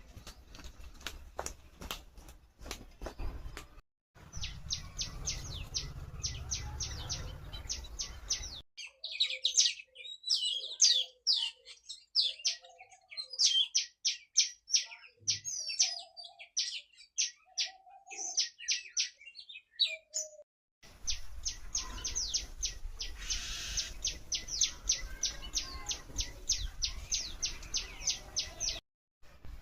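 Small birds calling: fast runs of short, sharp, high chirps at about five a second, and in the middle a more varied mix of chirps and whistles with a few lower notes. The sound breaks off abruptly several times between stretches.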